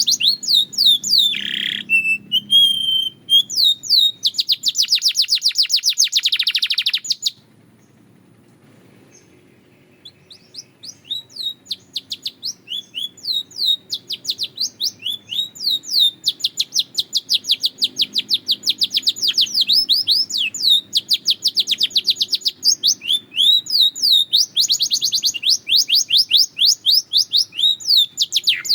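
Belgian canary singing: long, rapid trills of repeated high notes alternating with slower chirped phrases. The song breaks off for about three seconds roughly a quarter of the way in, then resumes.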